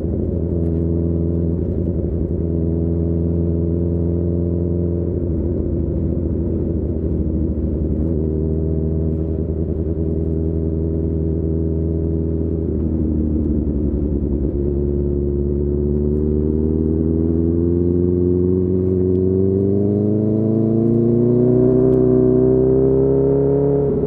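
Honda CB1000R's inline-four engine breathing through a full Akrapovic exhaust, running at a fairly steady pitch with a few small shifts in revs. Past the halfway point the revs climb steadily as the bike accelerates.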